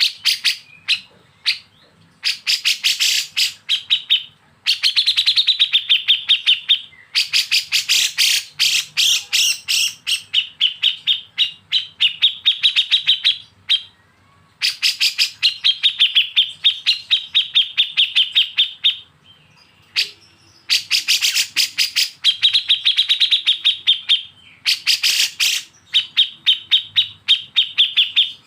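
A songbird's recorded besetan: fast, sharp repeated notes in a steady pitch band, coming in runs of one to four seconds with short pauses between.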